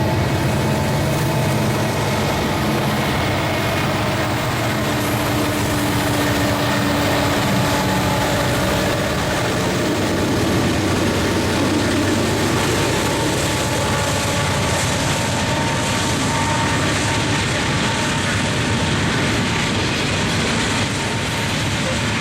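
A freight train rolling past with a steady, loud rumble from its diesel locomotive and rail cars.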